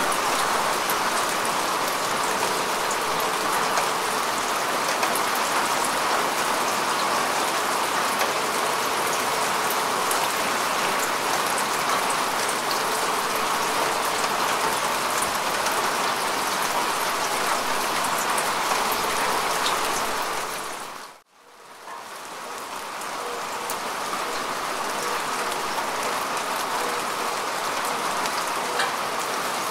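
Steady rain falling on grass and earth, an even patter of drops. About two-thirds of the way through it fades quickly to near silence and then swells back up over a couple of seconds.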